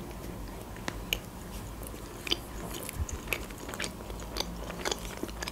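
A person chewing a mouthful of Kinder Délice, a chocolate-coated sponge cake bar, with soft mouth sounds and scattered small clicks.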